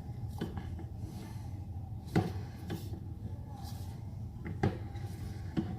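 Sewer inspection camera gear being worked in a drain line: about five sharp knocks and clicks at uneven intervals over a steady low hum.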